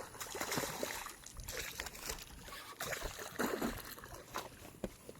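Irregular splashing and sloshing of water with scattered clicks and knocks while a hooked bass is fought in on a baitcasting rod.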